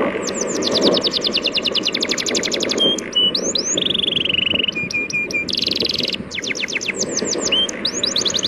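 Birds chirping in fast trills of high, downward-sweeping notes, about ten a second, with breaks and a few held whistles between them. Underneath runs a steady wash of sea waves.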